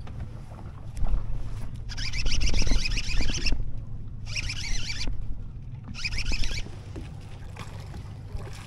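Boat on open water: a steady low hum, with three short bursts of hissing splash about two, four and a half and six seconds in.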